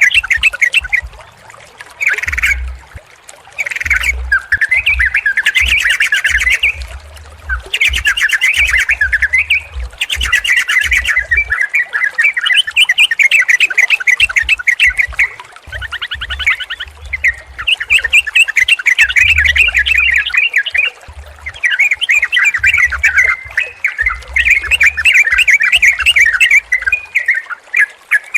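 Yellow-vented bulbuls (trucukan) calling in long, overlapping runs of quick bubbling chatter, with only brief pauses.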